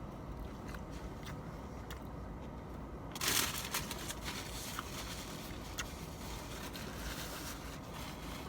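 Someone chewing a crunchy, batter-coated corn dog, with small mouth clicks. A short, louder crunching rustle comes about three seconds in, over a steady low background hum.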